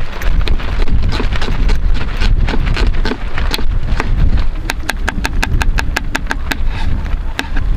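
Strong mountain wind buffeting the microphone with a heavy rumble. Over it come many sharp ticks, rapid and fairly regular from about halfway through.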